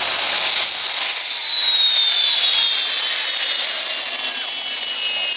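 Jet engine on a car running with a loud rushing hiss and a high-pitched whine that falls slowly in pitch.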